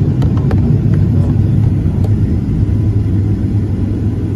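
Steady low rumble of an airliner cabin waiting at the gate, with a few light clicks in the first second.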